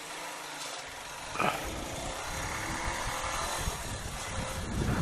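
CPI DTR 150 motorcycle's engine running under way, mixed with wind rush, getting gradually louder as it accelerates.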